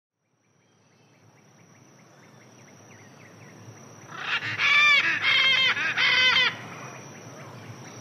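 Tropical wildlife ambience fading in from silence, with a steady high-pitched insect drone. From about four seconds in, a bird gives loud, repeated calls in three quick bursts lasting about two seconds.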